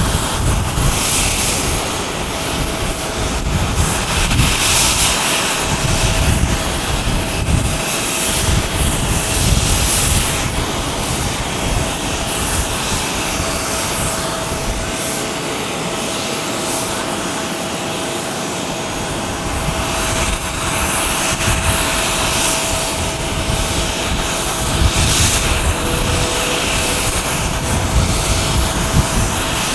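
Airbus A330-300 jet engines (Rolls-Royce Trent 700 turbofans) running, with a steady whining tone over an uneven low rumble.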